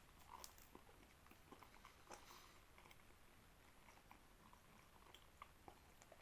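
Faint chewing of a meatball sub: soft, scattered wet mouth clicks and smacks over near silence.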